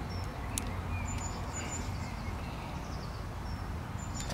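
Small birds chirping with short high notes over a low steady outdoor rumble, with one sharp click about half a second in.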